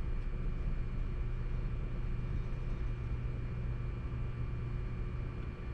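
Table saw running steadily, a constant motor hum with a faint whine above it and no change in pitch or level.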